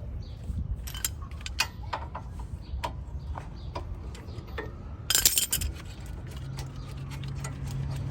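Metal brake parts and hand tools clinking and tapping as a car's disc brake assembly is taken apart, with a short harsh rasp about five seconds in and a low steady hum starting soon after.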